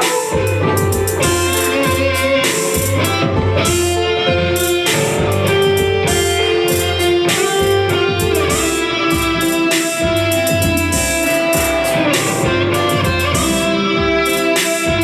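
Live band playing: electric guitar over a pulsing bass line and drums with cymbal hits, in a steady beat.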